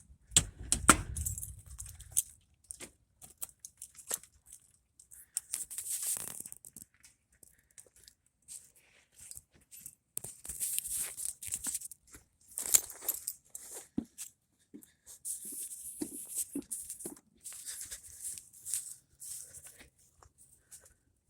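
Intermittent rustling and crinkling with small clicks and knocks, as of things being handled and carried, and a brief low rumble in the first two seconds.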